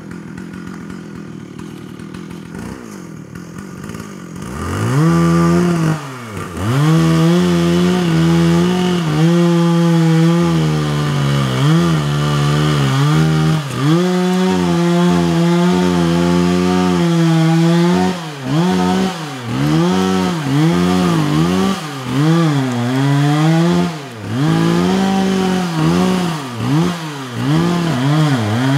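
Stihl chainsaw cutting into a large tree trunk. It runs quieter for the first few seconds, then at high revs from about five seconds in, its pitch dipping and recovering again and again as the chain loads up in the wood.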